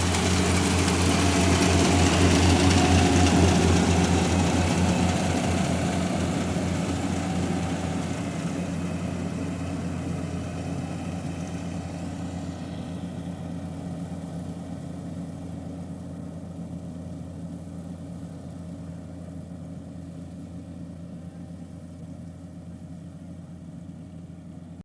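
Kubota combine harvester's diesel engine running steadily, with a low even hum that grows fainter over the stretch.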